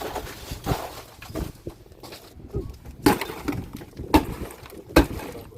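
A few sharp knocks and clinks of hard objects, spaced irregularly about a second apart, the loudest about three and five seconds in.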